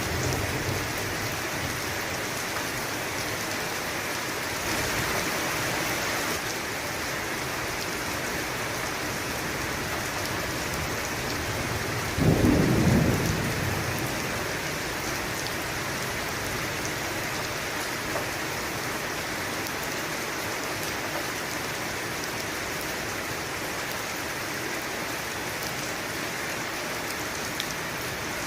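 Steady heavy rain, with a low rumble of thunder about twelve seconds in that lasts about two seconds and is the loudest sound.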